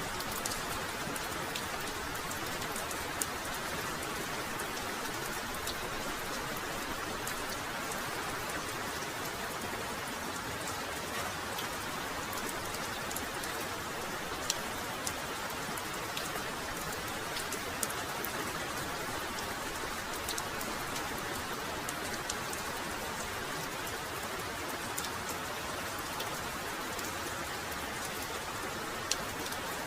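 Heavy, steady rainfall, an even dense hiss with scattered sharp ticks of individual drops striking close by.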